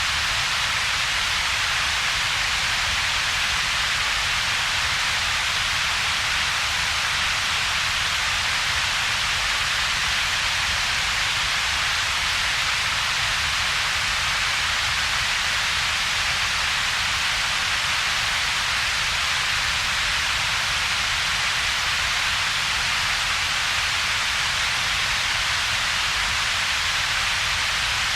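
Steady synthetic noise with two peaks in its spectrum, a hiss centred around 2–4 kHz over a fainter low rumble, with a gap between them. It is a constant, unchanging shush.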